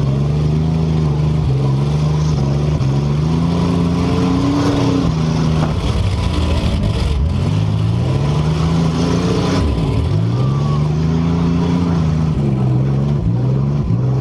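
Compact demolition derby cars' engines revving up and down, loud and continuous, their pitch rising and falling again and again as more than one engine runs at once.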